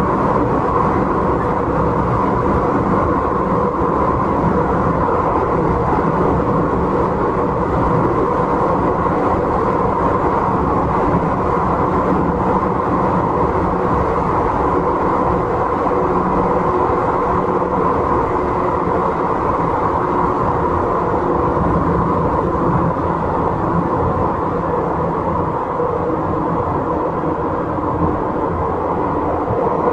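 Izukyu 8000 series electric train running at a steady pace, heard from inside the passenger car: a continuous rumble of wheels on rail and running gear.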